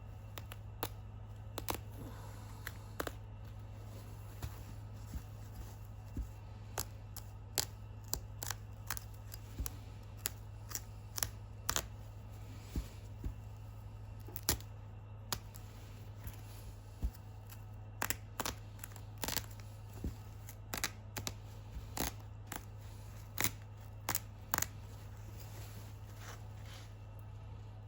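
Scissors snipping through the old armrest cover to cut it apart into pattern pieces, with irregular sharp snips about one to two a second.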